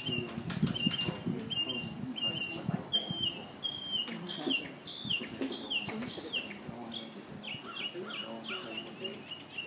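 A small bird chirping over and over: short, falling chirps about one or two a second, coming quicker and with some higher notes near the end.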